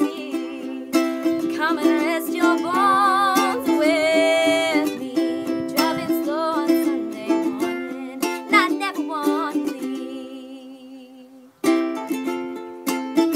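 Ukulele strummed in a steady chord pattern, with a woman's wordless sung melody wavering over it in stretches. The sound dies away about eleven seconds in, and the strumming starts again shortly before the end.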